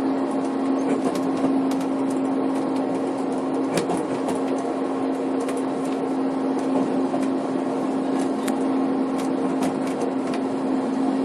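Snowdon Mountain Railway rack train running on the climb, heard from on board: a steady drone with a constant hum, and scattered sharp clicks and rattles from the carriage and track.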